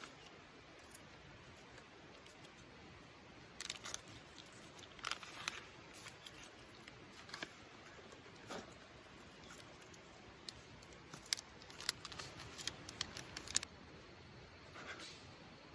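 Scattered light clicks, snips and rustles of small objects being handled, in short clusters over a faint steady background.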